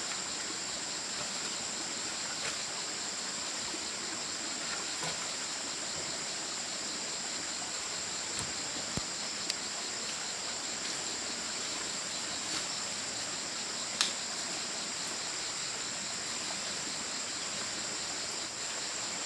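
Steady outdoor ambience: a constant high-pitched insect chorus drones over an even watery hiss, with a few sharp clicks, the loudest about two-thirds of the way through.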